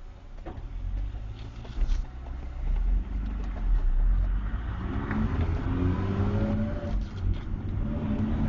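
Mazda RX-8's two-rotor rotary engine heard from inside the cabin, accelerating: a deep rumble builds, then the engine note rises in pitch and grows louder from about halfway through.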